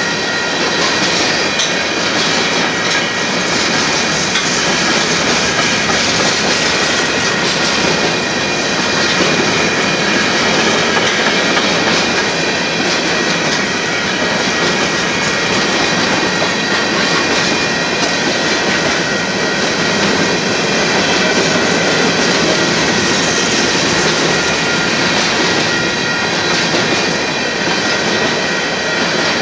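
Covered hopper cars of a freight train rolling steadily past at close range: a continuous loud rumble and clatter of steel wheels on the rails, with a thin, steady wheel squeal running through it.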